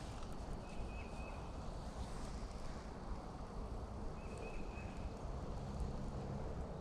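Outdoor pond-side ambience: a steady low rumble of wind on the microphone, with two short high chirps, one about a second in and one about four seconds in.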